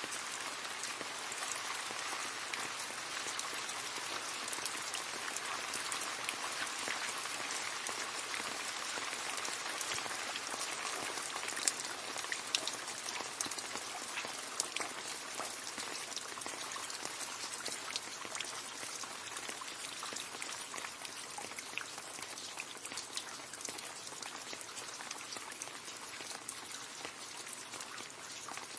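Steady rain falling into a puddle: a dense patter of drops splashing on water, with a few louder, closer drops about twelve seconds in.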